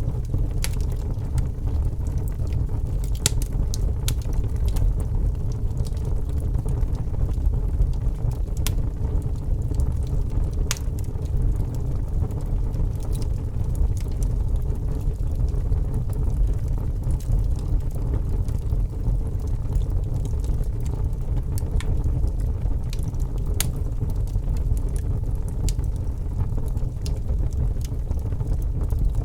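Log fire burning in a fireplace: a steady low rumble of flames with scattered sharp crackles and pops at irregular intervals.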